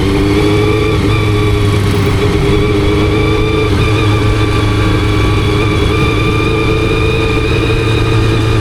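Honda CBR400RR's carbureted inline-four engine running at steady revs. Its exhaust note holds a nearly constant pitch throughout.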